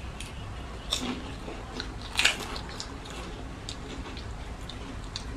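People eating rice and mutton curry with their hands: chewing, biting and wet mouth sounds, with two louder sharp sounds about one and two seconds in.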